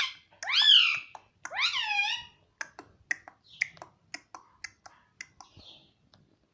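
Indian ringneck parrot giving two drawn-out calls that rise and then fall in pitch, followed by a run of quick, sharp clicks.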